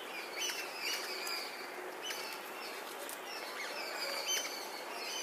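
Small birds chirping in short, high, repeated calls, several a second, over a steady background hiss.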